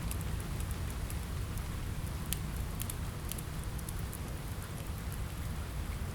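Steady rain on a window with a low rumble underneath, mixed with scattered sharp crackles and pops from a wood fire, a small cluster of them about halfway through.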